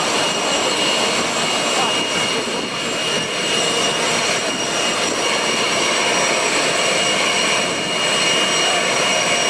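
Jet engines of a Boeing 747-400 freighter running steadily: a loud, even rush with several high steady whines on top.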